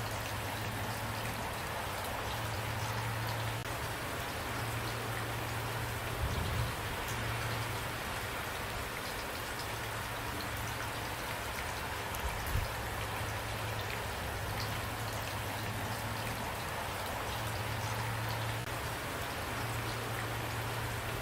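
Steady rain falling, with a low steady rumble underneath. Two brief low thumps stand out, about six and twelve seconds in.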